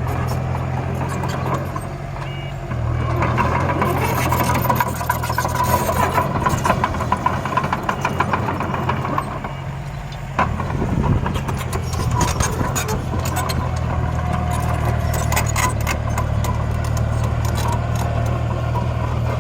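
Heavy construction machine's diesel engine running steadily, with a sharp knock about ten seconds in and scattered clicks over the engine.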